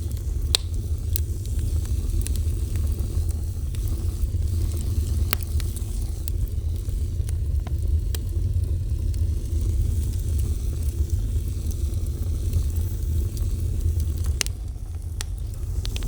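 Fire burning with a steady low rumble and a few sharp crackling pops scattered through, a cluster of them near the end.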